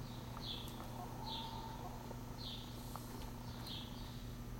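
Small bird chirping roughly once a second, each chirp a short, high, falling note, over a steady low hum.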